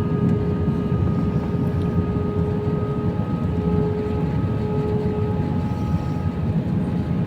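Airbus A319 cabin noise on approach: a steady low rumble of engines and airflow, with a few constant whining tones over it.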